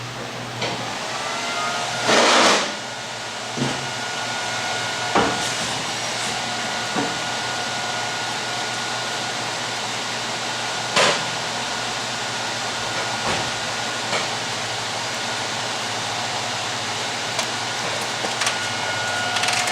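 TIG welding arc hissing steadily on steel bodywork, with a few sharp knocks or taps along the way, the loudest about two seconds in.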